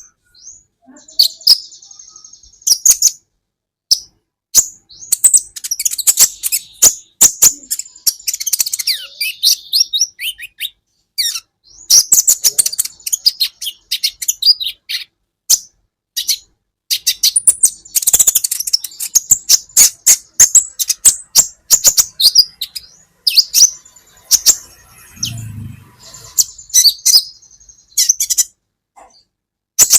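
Kolibri ninja (sunbird) singing: rapid, very high, sharp chirps and short twittering runs, in bursts broken by brief pauses. A short low thud sounds near the end.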